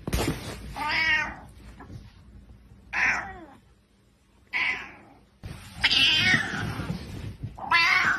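A cat meowing repeatedly, about five separate calls with short pauses between them.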